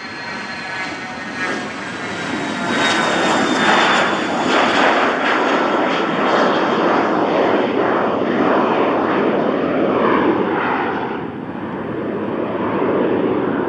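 Cessna 680 Citation Sovereign business jet on departure, its twin Pratt & Whitney Canada PW306C turbofans running at takeoff power. A high whine that dips slightly in pitch gives way to a loud engine roar that builds about three seconds in and eases off near the end as the jet goes past.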